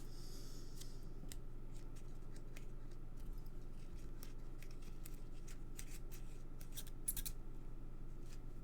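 Small, scattered clicks and light rustling of papercraft handling as foam adhesive dimensionals are taken off their sheet and pressed onto a paper bird, over a steady low hum.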